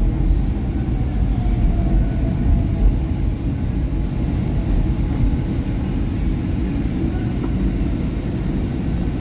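Interior running noise of a SEPTA Market-Frankford Line train car: a steady low rumble of wheels on rail, with a faint motor whine falling in pitch over the first few seconds as the train slows toward a station.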